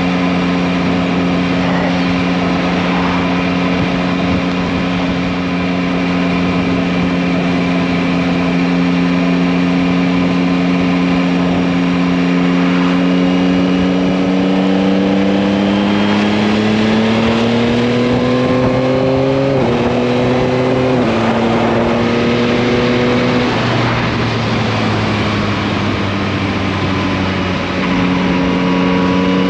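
2021 Yamaha MT-09's 890 cc three-cylinder engine running at steady cruising revs, then rising in pitch under acceleration with two quick upshifts about two-thirds of the way through. The revs then fall away and settle steady again near the end, over wind and road noise.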